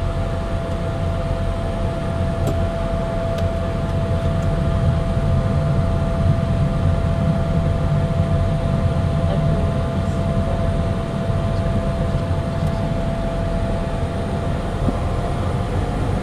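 Cockpit noise of a Cessna Citation Sovereign business jet taxiing after landing: a steady low rumble with one even whine held throughout, the engines at low power.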